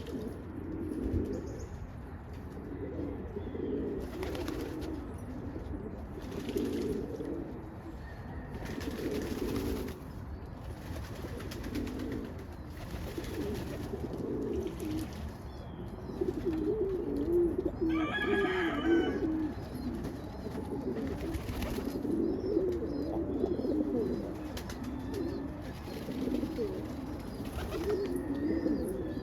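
Domestic pigeons cooing continuously in low, wavering, overlapping phrases. A louder, higher call comes about 18 seconds in, and faint high chirps sound later on.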